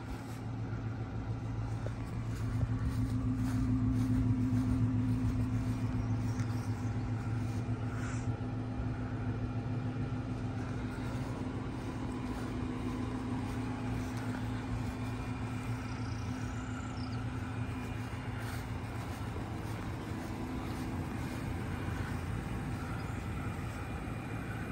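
Dodge Charger police car's engine idling, a steady low hum that is loudest about three to six seconds in.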